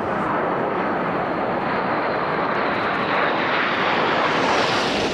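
BAE Hawk T1 jets of the Red Arrows flying past, a steady jet rush that grows louder and brighter near the end as they come closer.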